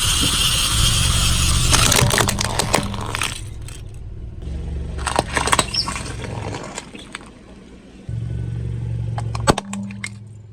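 Car engine running slowly while its tyre rolls over objects, with clusters of sharp cracking and crunching three times. A loud hiss at the start cuts off about two seconds in.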